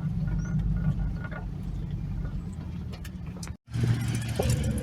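Steady low rumble of a car running. The sound cuts out abruptly about three and a half seconds in and resumes a moment later.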